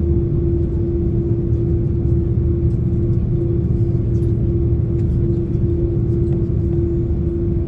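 Airbus A330-300's GE CF6-80 turbofan engines heard from inside the cabin, running steadily: a low rumble under one constant hum, with no change in pitch.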